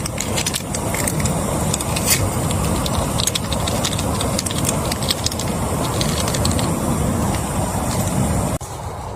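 Heavy rain: a steady rush with a deep rumble and many sharp drop hits. Near the end it drops suddenly to a quieter level.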